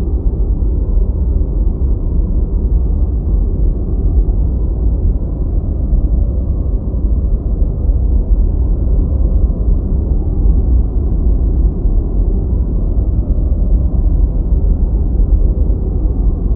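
Deep white noise, held steady and unchanging: a dense low hiss with its weight in the bass and no high, bright edge.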